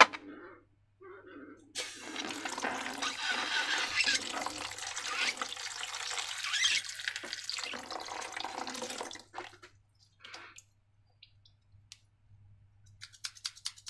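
Liquid pouring in a continuous, fluctuating stream for about seven seconds, starting a couple of seconds in, followed by a few scattered light taps and clicks.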